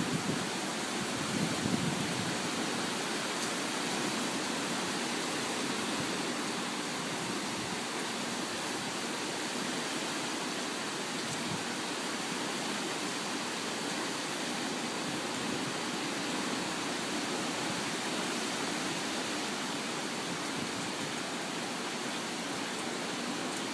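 Steady, heavy rain from a tropical storm, falling in an even wash with no pauses.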